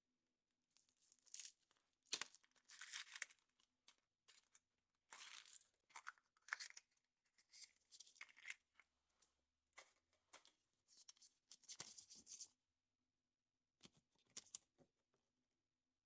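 Wrapper being torn open and crinkled off a chocolate surprise egg: a string of short, faint rustling tears with brief pauses between them.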